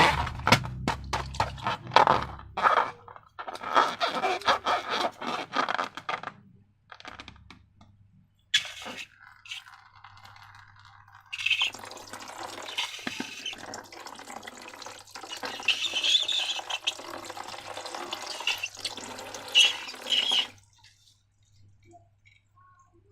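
Wet slime handled by hand: sticky crackling squelches for about the first six seconds, then, after a short pause, a longer run of liquid squishing that stops a couple of seconds before the end.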